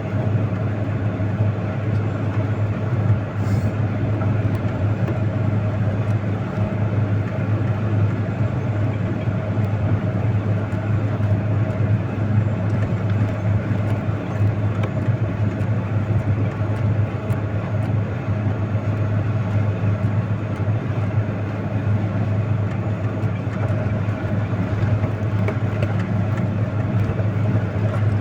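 Heavy vehicle's engine running steadily under way, a constant low drone.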